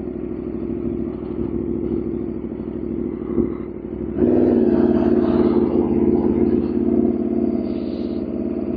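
Aprilia RSV4 1100 Factory's V4 engine running while riding, with wind and road noise; about four seconds in it gets clearly louder as the throttle opens, and stays up.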